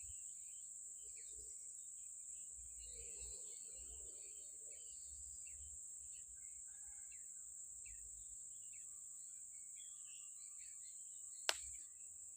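Outdoor ambience of insects droning steadily at a high pitch, with scattered short bird chirps. A single sharp click sounds near the end.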